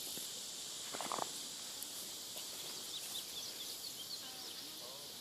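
Outdoor ambience: a steady high insect drone, with a brief pitched call about a second in and several short bird chirps a little later.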